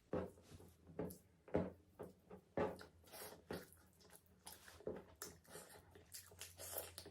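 Close-miked sounds of curry and rice being handled and eaten: a series of short, sharp wet knocks and squelches about a second apart, growing denser and softer after the first few seconds.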